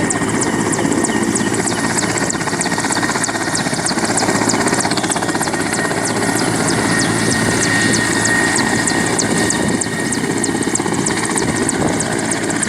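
Helicopter running close by: a loud, steady rotor chop over the engine, with a thin high whine held throughout.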